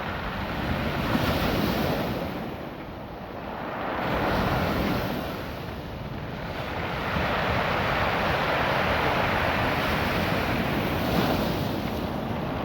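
Ocean surf washing up and back over a beach of small rounded stones, the stones rattling as the water moves them. It comes in surges, two short ones and then a longer one, with wind buffeting the microphone.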